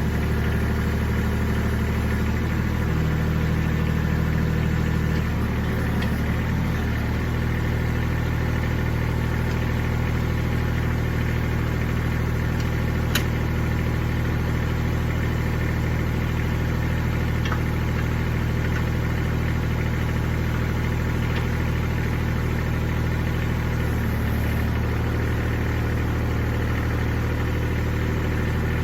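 Kubota L-series tractor's diesel engine running at a steady speed, with one brief click about halfway through.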